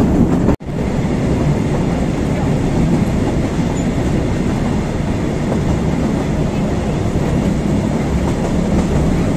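Steady running noise of a 600 mm narrow-gauge train's wheels on the track, heard from aboard the moving train. About half a second in, the sound cuts out for a moment.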